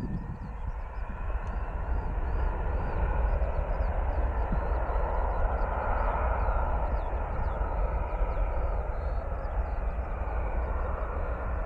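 Turbofan engines of an Embraer E175 regional jet passing: a rushing jet noise that swells to its loudest around the middle and then eases off, over a low rumble.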